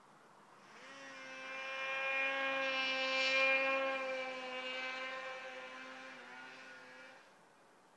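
A steady motor hum with an almost unchanging pitch, swelling in from near silence, loudest about halfway through, then fading away about a second before the end.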